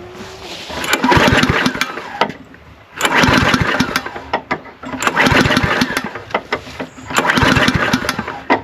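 Walk-behind lawnmower engine pull-started four times, turning over in a quick run of pulses with each pull but never catching. It will not start because water has got into the carburetor.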